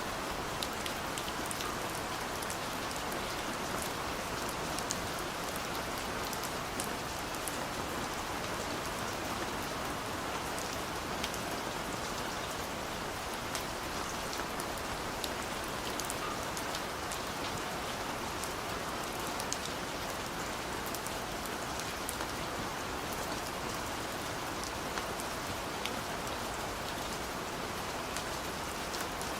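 Steady rain falling, an even hiss with scattered ticks of individual drops hitting a surface.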